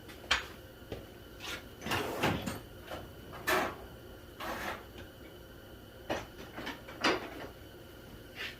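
Irregular scrapes, clicks and short rubbing noises of hands and tools working at a seized upper radiator hose and its clamp, with the loudest handling around two and three and a half seconds in.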